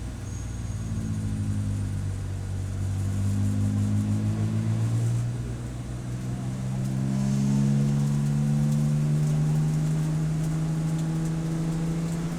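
Race car engine heard onboard, pulling up in pitch under acceleration. It eases off in pitch and volume about five seconds in, then climbs steadily again.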